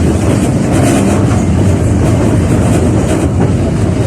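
A 71-605A (KTM-5A) tram running along the track, heard from inside the car: a steady low rumble of wheels on rails and running gear, with a few light knocks from the rails.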